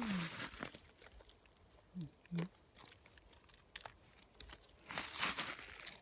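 Crunching and crackling: scattered sharp clicks with a louder crunch about five seconds in. A brief low hum from a voice comes just after two seconds.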